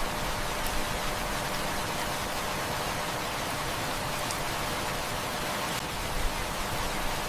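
Steady heavy rain, a dense even hiss, with a few faint crackles from a wood fire now and then.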